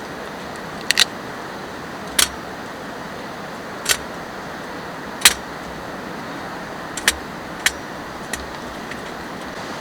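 Steady rain hiss, with about eight sharp, irregular clicks or light knocks over it, the loudest about halfway through.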